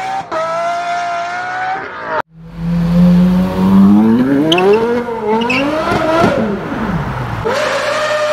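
Three high-revving car engines one after another. First an engine held at high, steady revs in a burnout, which stops abruptly about two seconds in. Then a Porsche Carrera GT's V10 idling and revved twice, its pitch climbing and falling each time, and near the end a Lamborghini Gallardo's V10 held at high steady revs as a burnout begins.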